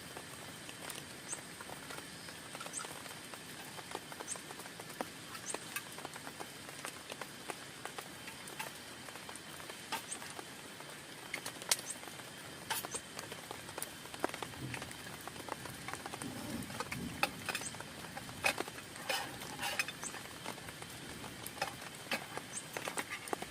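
Rain falling on a tent: a steady hiss with scattered individual drops tapping sharply on the fabric.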